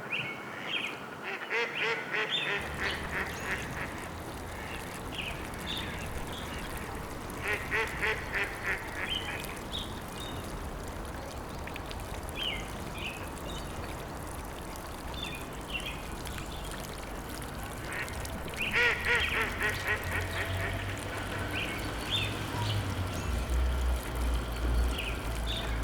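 Birds calling: three bursts of rapid repeated calls with scattered short chirps between them, over a low rumble that comes in a few seconds in and grows louder in the second half.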